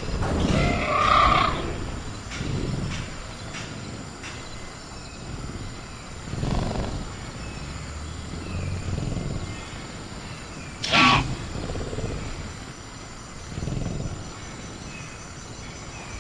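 Sound-design velociraptor growling and snarling in a series of separate calls, the loudest about a second in and a sharp, sudden one about eleven seconds in, over faint steady crickets.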